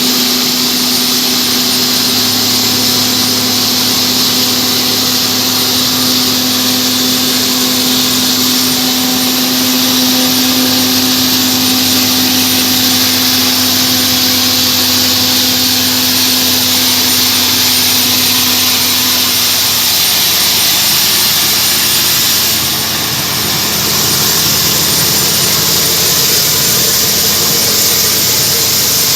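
Ilyushin Il-76 cargo jet's engines running at close range, a steady loud jet roar with a high whine. A low hum under it steps down slightly in pitch about twenty seconds in.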